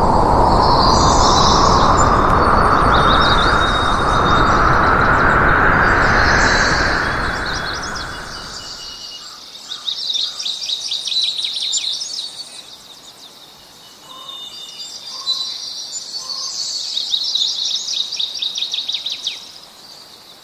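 Birds chirping and trilling, with two stretches of fast trills in the second half. For the first several seconds a loud rushing noise rises in pitch underneath, then fades away, leaving the birdsong alone.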